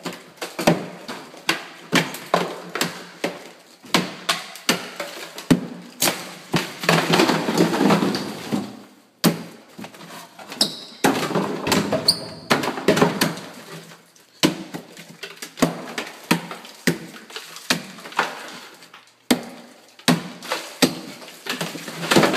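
A hammer knocking into drywall and the board being pulled off the studs: a run of sharp knocks, one or two a second, with longer stretches of crunching and breaking board in between.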